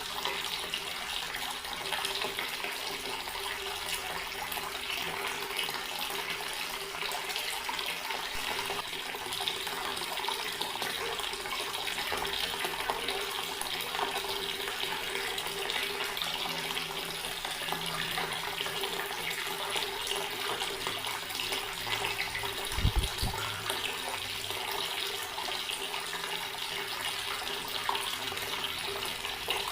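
Water running steadily from a tap in a continuous stream, with a faint steady hum underneath. A single brief low thump comes about two-thirds of the way through.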